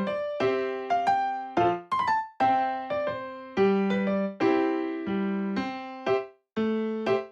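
Background music: solo piano playing a slow, gentle melody, each note or chord struck and left to fade.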